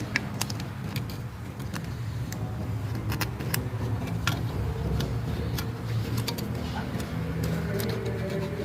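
Light scattered metal clicks and ticks of a feeler gauge and tools being worked at an engine's valve tappets to check the clearance, over a steady low hum.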